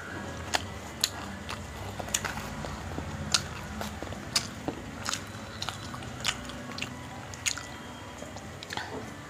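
Close-miked chewing of fried bhatura bread and chickpea curry, with wet mouth smacks and sharp clicks coming at an irregular pace, about one or two a second.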